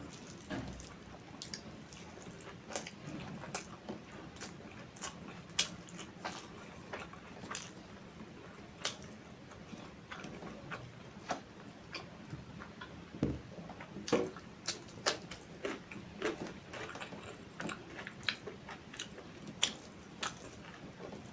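A person chewing food close to the microphone, with irregular short mouth clicks and smacks throughout.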